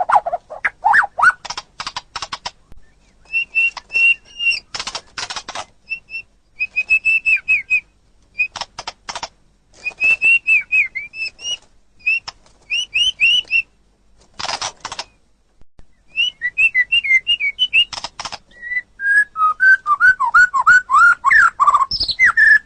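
White-rumped shama (murai batu) singing: phrases of clear, quickly repeated whistled notes broken by bursts of sharp dry clicks, with short pauses between phrases. Near the end the whistles drop lower and slide in pitch.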